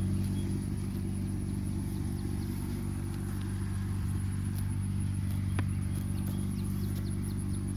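Steady low mechanical hum of constant pitch, like a motor running, with a single sharp click about five and a half seconds in.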